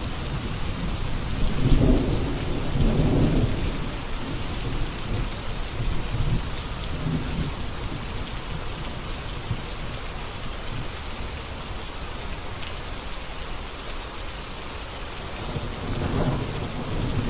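Steady rain falling, with low rolls of thunder rumbling about two seconds in and again near the end.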